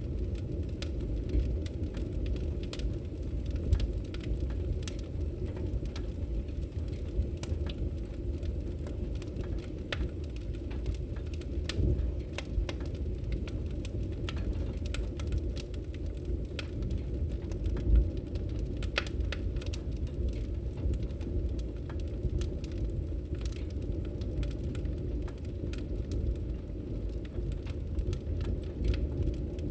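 Wood fire burning in a fireplace: a steady low rumble of flames with frequent sharp, irregular crackles and pops, the loudest about eighteen seconds in.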